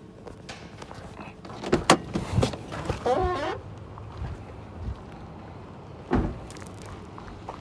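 A few sharp knocks and clunks, the loudest about two seconds in and another about six seconds in, with a short wavering squeak about three seconds in.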